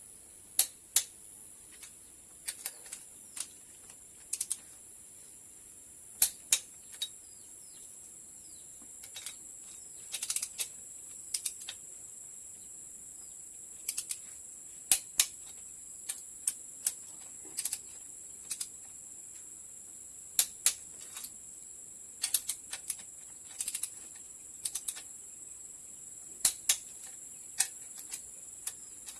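Irregular sharp clicks and taps, single or in quick pairs and short clusters, from tools and metal parts being handled during engine reassembly, over a steady high-pitched insect drone.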